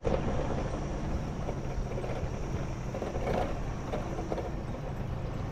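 Truck engine running steadily, with a few light knocks about three to four and a half seconds in.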